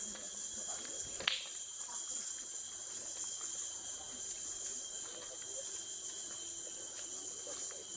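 Insect chorus: a steady high-pitched drone, with a thinner steady whine beneath it. A single sharp click comes about a second in.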